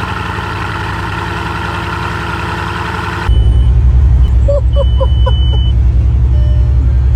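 Bugatti's quad-turbocharged W16 engine running at idle just after being started. About three seconds in it turns abruptly louder and deeper, into a heavy steady rumble.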